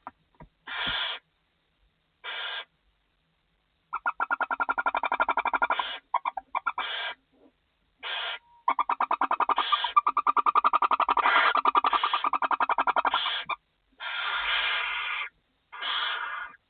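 Barn owls calling in the nest box at a feeding: short hissing 'snores' alternating with long, fast, chittering trills, about four seconds in and again from about nine to thirteen seconds in.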